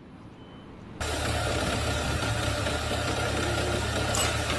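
A machine's engine running steadily, loud and noisy with a deep rumble, starting abruptly about a second in.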